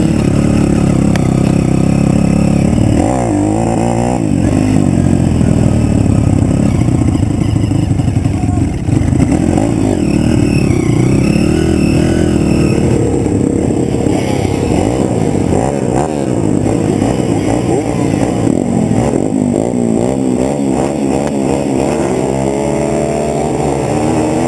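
Pit bike engine running hard, its pitch rising and falling again and again as it revs up and down through the gears.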